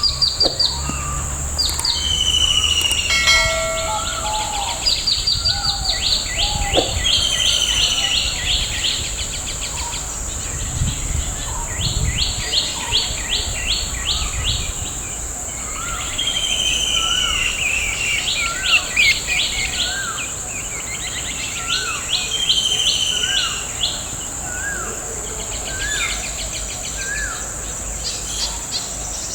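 Several birds singing and calling together, with rapid trills, slurred whistles and a short rising note repeated about once a second in the latter half, over a steady high-pitched insect drone.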